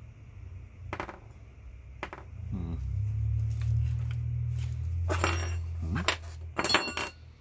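Small metal parts clinking and clattering on a work table as a massager is taken apart, with a few sharp ringing clinks near the end over a low steady rumble.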